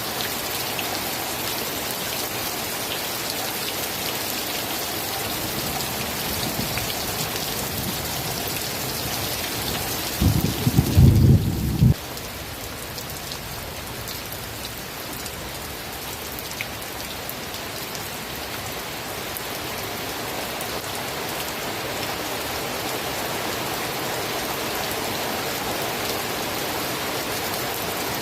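Steady rainfall hissing. About ten seconds in, a loud low rumble lasts under two seconds and cuts off abruptly, after which the rain sounds slightly duller.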